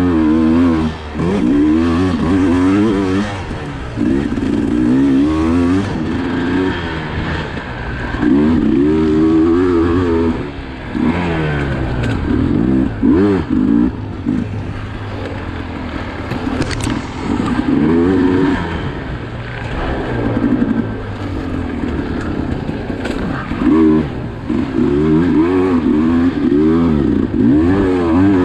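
Sherco SE300 two-stroke enduro motorcycle engine, revved hard and eased off again and again, its pitch rising and falling every second or two as the throttle is worked.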